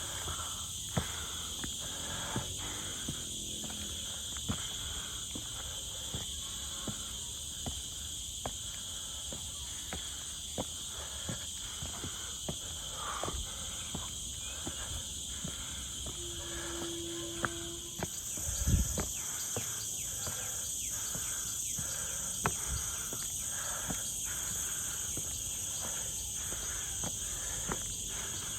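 Steady, high-pitched drone of an insect chorus in forest, whose higher note grows louder about two-thirds of the way through, over regular footsteps on the trail about every half second. A brief low thump comes a little past the middle.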